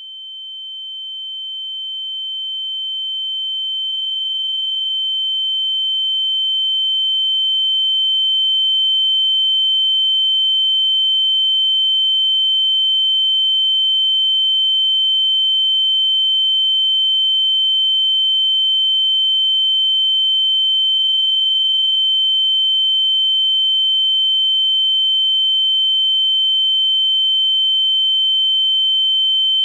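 A single steady high-pitched electronic tone, a pure whistle-like beep that holds one pitch. It swells in over the first eight seconds or so, then holds at one level.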